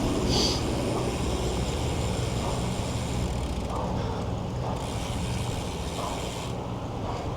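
Road traffic: a steady low engine hum from a nearby truck or car, with a continuous noisy background.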